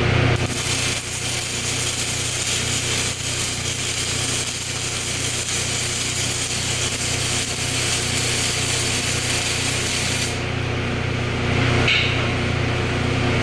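Welding arc crackling steadily as a plate is welded onto the end of a rectangular tube; it cuts off suddenly about ten seconds in, leaving a steady low hum.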